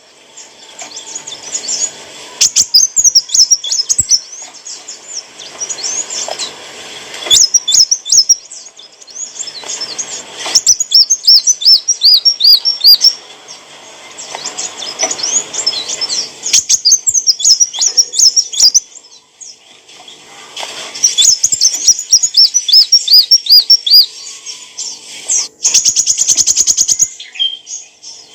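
Sunbird (kolibri wulung) singing: bursts of high, rapid chirps and twittering trills, repeated phrase after phrase with short pauses between, and a fast ticking run near the end.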